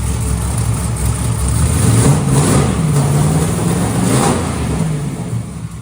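Twin-turbo, methanol-fuelled NASCAR truck V8 idling, revved up about a second and a half in, held for a couple of seconds, then let back down to idle. It is running clean and crisp.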